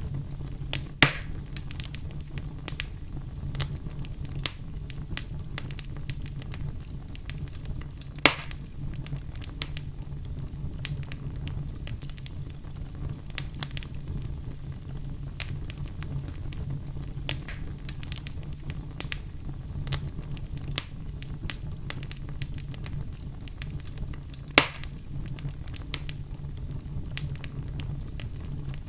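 Wood fire burning in a fireplace: a steady low rumble with many small crackles and three louder, sharp pops spread through it.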